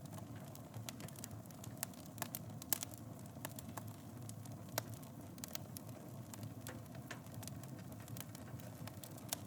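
Wood fire burning in a fireplace: a steady low rush of flames with frequent irregular crackles and snaps, a couple of louder pops about a third and half of the way through.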